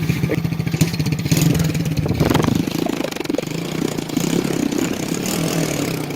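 Small 110 cc four-stroke single-cylinder ATV engine running at idle, with a brief rise in the engine note about two seconds in.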